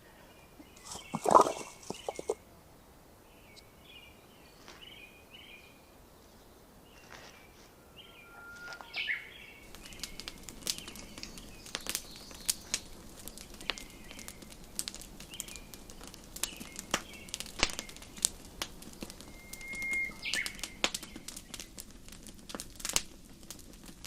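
Small birds chirping throughout, with a brief loud noise about a second in. From about ten seconds in, a campfire crackles and pops steadily with many sharp snaps.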